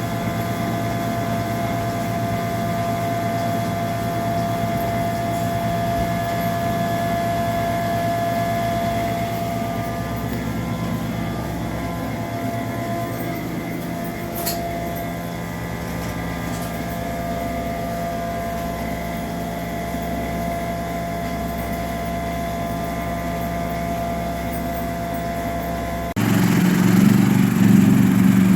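Machinery running steadily with a constant whine over a low hum; about 26 seconds in it cuts abruptly to a louder, deeper engine sound.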